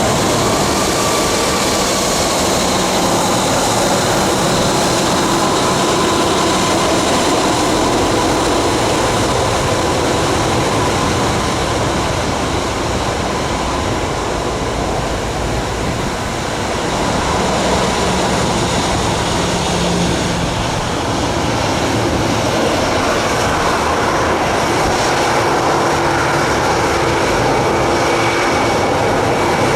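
Jet aircraft engines running loudly: a steady rush of noise with a thin whine over it, dipping slightly about halfway through.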